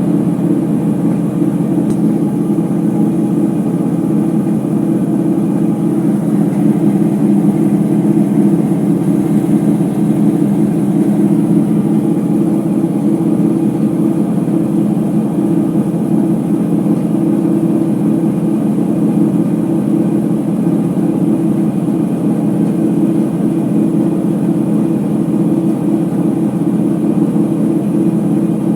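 Ipso HF 65 commercial washer spinning at speed in its final spin, a loud, steady drone that holds level throughout. The drone comes from the drum's bad bearings.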